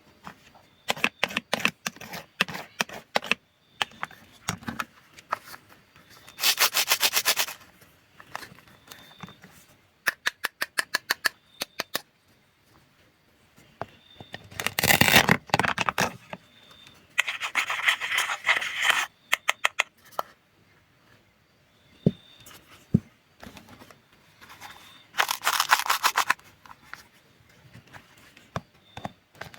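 Food being cut: repeated crunchy cutting bursts of a second or two, runs of rapid crisp clicks, and two sharp knocks a little past two-thirds through.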